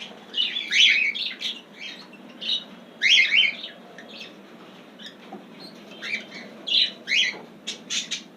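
Caged pet budgies and cockatiels chirping and squawking in short calls, several a second at times, with a few sharp clicks near the end.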